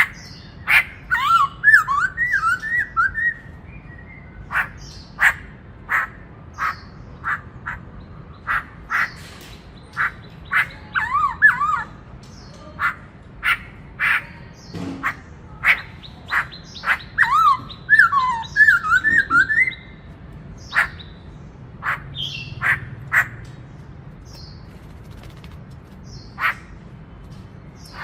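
Black-throated laughingthrush singing: three bursts of quick, fluting whistled notes sweeping up and down, with many short, sharp calls between them, about one or two a second.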